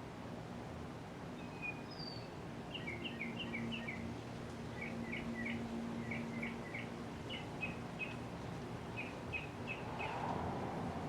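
A bird chirping in quick runs of three or four short notes, over the steady low hum of the 1983 Casablanca Panama ceiling fan running. A brief whoosh comes near the end.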